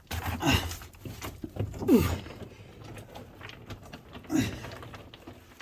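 A person grunting with effort, three short falling vocal sounds, amid scrapes and knocks of a body squeezing through a tight rock crawl.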